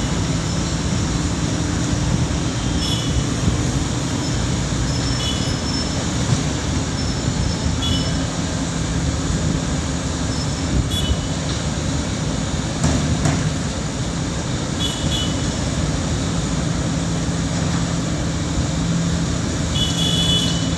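Heavy road-works machinery running with a steady, loud engine drone. Short high-pitched chirps recur every few seconds over it.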